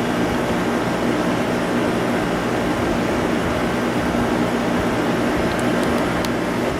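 LG-built Whirlpool 5,000 BTU window air conditioner running on high with its compressor on: a steady rush of fan air over a low, even hum.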